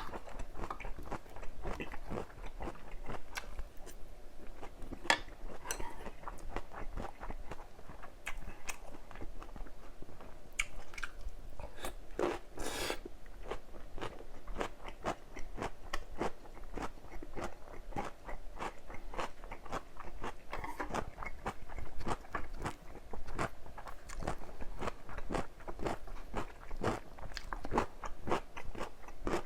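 Close-miked chewing and crunching of a mouthful of bulgogi with crisp wrap vegetables and cucumber kimchi: a steady run of wet mouth clicks and crunches, with a louder crunch about twelve seconds in.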